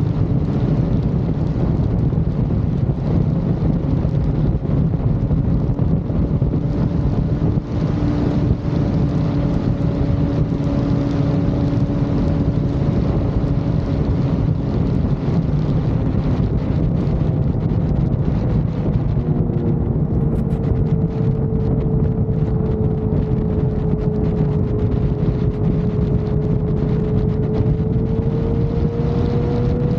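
Vehicle cruising at highway speed, with heavy wind noise on the microphone over a steady engine drone whose pitch dips slightly about two-thirds of the way through and climbs again near the end.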